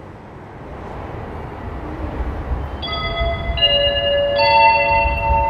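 Limited express train pulling into the platform: a low rumble grows louder, then from about three seconds in several steady, high metallic squealing tones join one after another as the train brakes.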